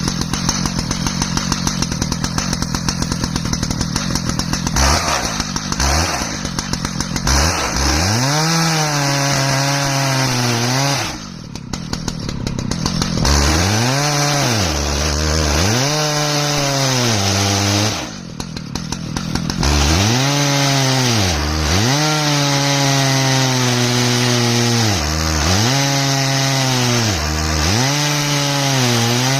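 Stihl MS 881 two-stroke chainsaw running in an Alaskan mill, ripping through an ash log. The engine starts at a steady high pitch, then its note falls and climbs back again and again as the cut loads it, easing off briefly twice.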